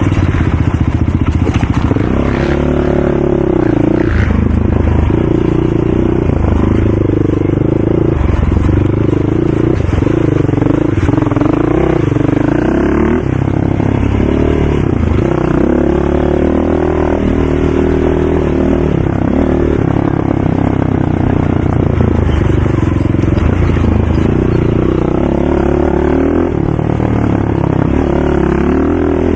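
ATV engine being ridden, its pitch rising and falling again and again with the throttle and gear changes, with some rattle and clatter.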